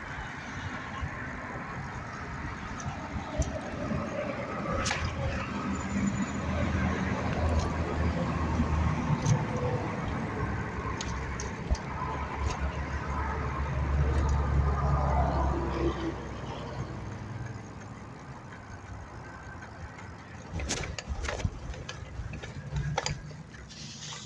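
City street traffic heard from a bicycle: a low rumble that swells for about ten seconds, as of a vehicle passing, then eases, with a few sharp clicks near the end.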